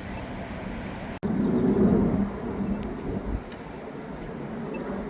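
Outdoor street ambience with traffic noise. Just over a second in, the sound cuts out for an instant; a louder low rumble follows for about a second, then eases back to the steady background.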